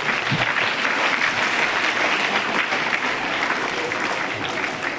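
Audience applauding: a dense, steady spread of hand clapping.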